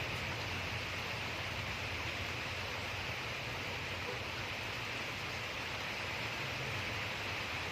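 Steady rushing noise of storm rain and wind, even throughout with a low rumble underneath.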